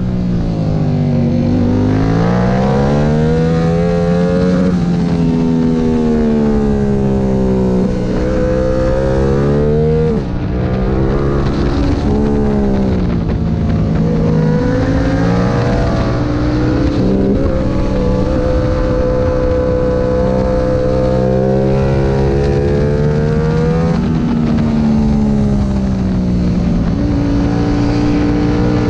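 Sport motorcycle engine at racing speed on a track lap. Its pitch climbs as it accelerates, then drops back several times for shifts and corner entries, over a steady rush of wind.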